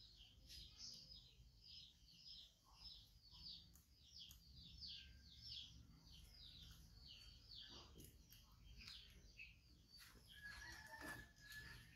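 Faint, rapid chirping of a small bird, short falling chirps repeated two or three times a second, with a longer steady call near the end.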